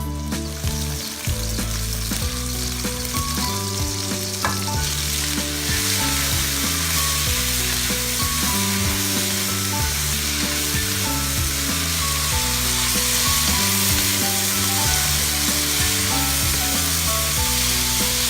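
Food frying in hot oil, a steady sizzle that grows louder about five seconds in, with stirring.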